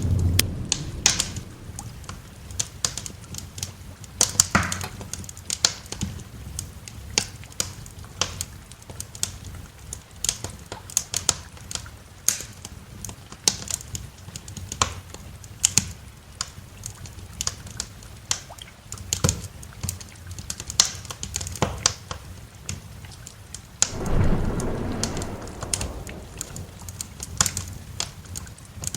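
Wood fire crackling with irregular sharp pops and snaps over steady rain. A low rumble of thunder fades out at the start, and another rolls in about five seconds before the end.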